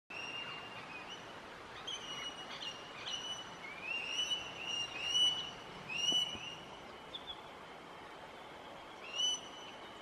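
Small bush bird calling: a string of short chirps, each sweeping up in pitch and then holding briefly, coming thick from about two to six seconds in and once more near the end, over a steady faint hiss of outdoor background.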